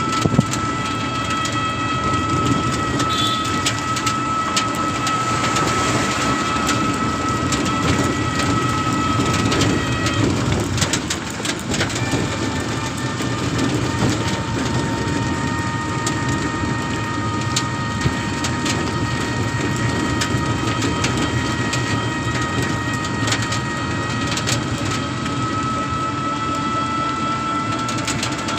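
Steady rain falling, with many small drop ticks, and several steady high-pitched tones running through it that shift pitch about midway.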